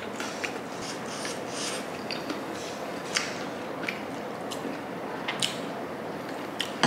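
Close-miked chewing of a mouthful of dumplings: scattered wet mouth smacks and squishes over a steady hiss.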